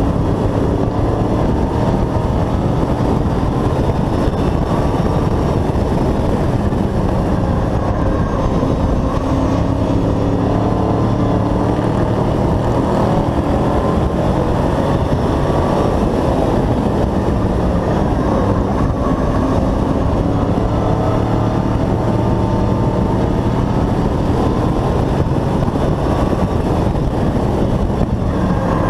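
Hobby-class race truck's engine at racing speed, heard from an onboard camera. It runs loud and continuously, its pitch rising and falling again and again over a steady rush of noise.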